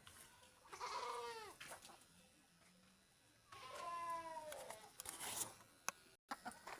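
A domestic animal calling twice: a short call about a second in and a longer one around three and a half seconds in.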